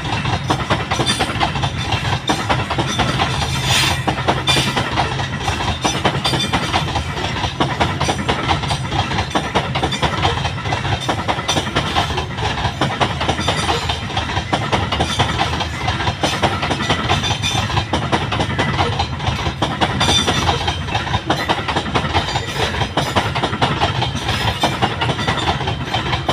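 Long Babaranjang coal train rolling by, its wagon wheels clattering steadily over the rail joints with a continuous low rumble.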